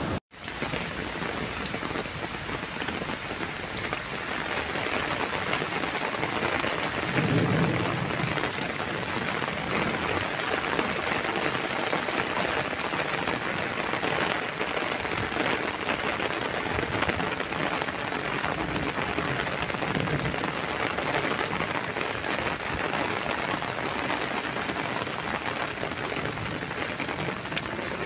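Heavy rain coming down steadily in a hiss of water. A brief low rumble comes about seven seconds in.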